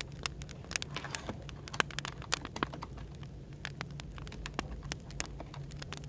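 Wood fire crackling, with frequent irregular sharp pops and snaps over a steady low background hum of cafe white noise.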